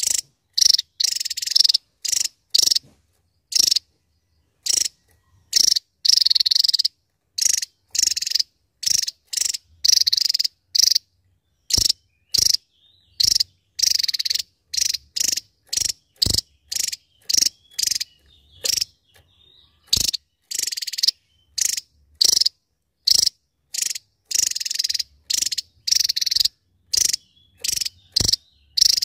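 Javan tesia singing: a long run of short, sharp, high-pitched notes and brief buzzy bursts, one after another with short silent gaps between them.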